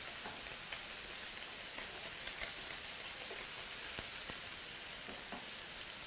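Salmon fillets frying in oil in a pan: a steady sizzle, with a few light clicks as the pieces are turned.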